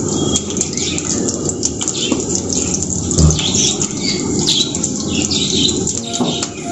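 Small birds chirping again and again in short quick calls, over a steady low rushing noise, with a soft thump about three seconds in.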